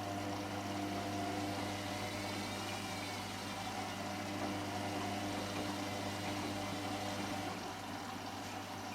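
Hotpoint Extra WMXTF742K washing machine running mid-cycle: a steady mechanical hum with water sounds in the drum.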